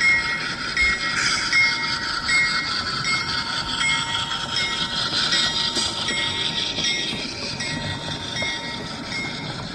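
HO scale model train running past, its sound-equipped locomotive and rolling noise steady and easing slightly near the end, with a bell dinging about twice a second.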